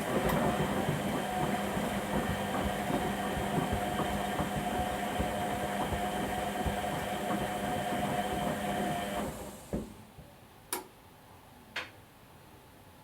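Whirlpool Indiana 1400 washing machine running mid-wash: a steady motor hum with constant rattling and knocking for about nine seconds, then it stops, followed by a thud and two sharp clicks.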